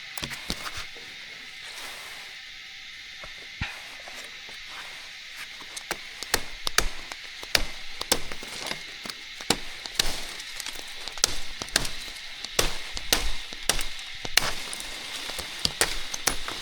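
Repeated chopping strikes on wood, irregular and several a second, starting about six seconds in, over a steady high hiss.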